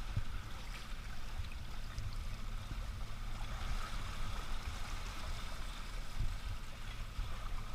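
Yacht under way: a steady low hum with water rushing and gurgling along the hull, and occasional low thumps.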